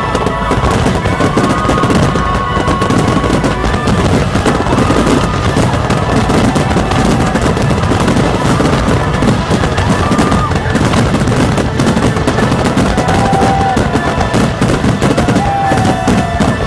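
A large aerial fireworks display firing a dense, nonstop barrage of bangs and crackles, rapid like machine-gun fire, with music playing underneath.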